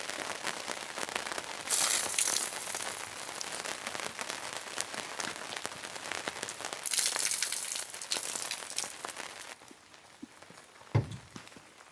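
Rain pattering on a surface: a dense crackle of drops that swells twice, and eases off near the end, where a few separate knocks are heard.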